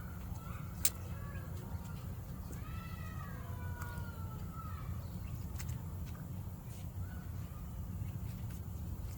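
Kea making soft, mewing whistled calls, several arching up and down, the longest gliding downward for about two seconds. A sharp click about a second in.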